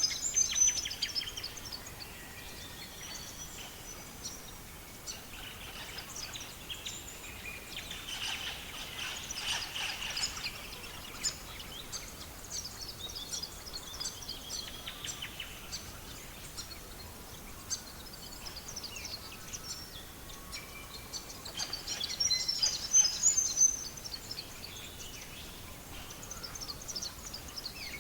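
Songbirds chirping and singing, loudest at the start and again about three quarters of the way through, over scattered sharp crackles of a wood fire.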